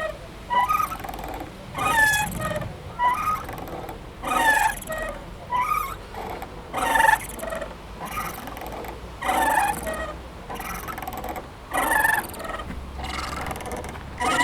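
Playground swing creaking as it swings back and forth, its metal hangers squeaking in a steady rhythm: a louder squeak of bending pitch about every two and a half seconds, with a softer one between.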